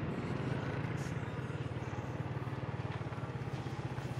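Motorcycle engine running steadily at low revs, a low, evenly pulsing note.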